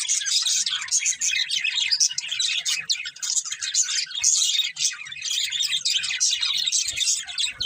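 Several pet budgerigars chirping and warbling in a continuous, overlapping chatter.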